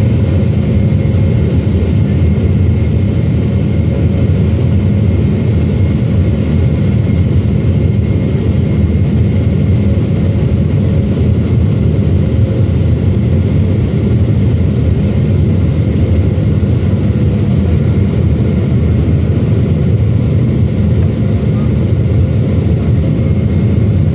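Boeing 777-300ER cabin noise: a steady low drone of the jet engines and airflow heard from inside the cabin, with a faint steady whine over it.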